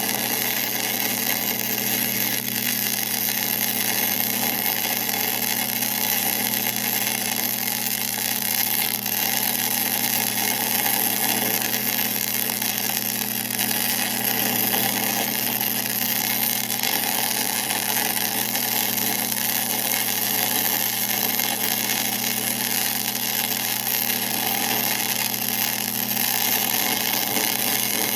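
1966 LeBlond geared-head engine lathe running steadily with a constant hum and whir, no change in pitch or level.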